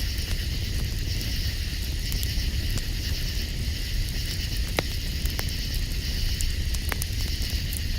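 Campfire crackling, with scattered sharp pops, over a steady chorus of night insects and a constant low rumble.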